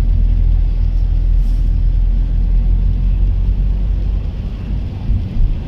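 Car driving along a road: a steady low engine and road rumble with no sudden events.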